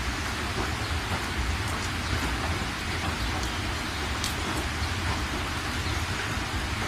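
Steady heavy rain falling, an even hiss with scattered sharp drop ticks and a constant low rumble underneath.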